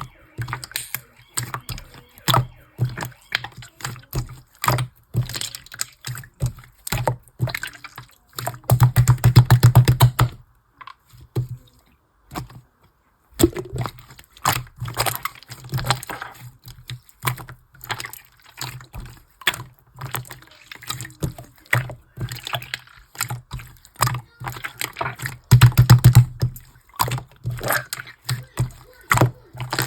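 Slime being squished and pressed by hand, making rapid wet clicking pops with short gaps. There are two longer, louder stretches of dense squelching, about nine seconds in and again near the end.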